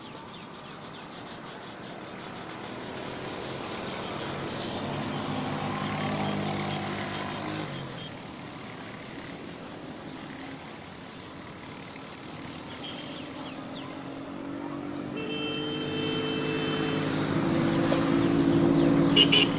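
Two motor vehicles passing one after the other, each growing louder and then fading. The second is the louder and peaks near the end.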